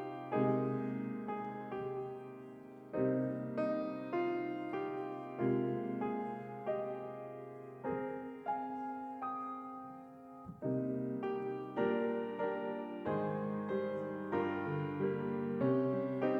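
Slow, gentle solo piano music, chords and notes struck about once a second and left to ring and fade.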